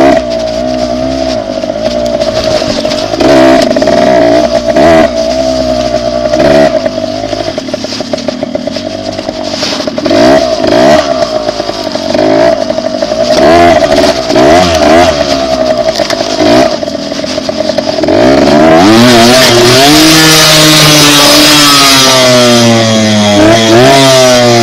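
Dirt bike engine running at low speed with a series of short throttle blips, then opening up about eighteen seconds in into a sustained louder run, its pitch climbing and dropping through the gears.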